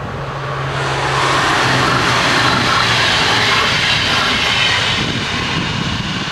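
Dutch NS yellow intercity electric train passing at speed: a loud rush of wheels on rails and air that swells about a second in and fades over the last couple of seconds.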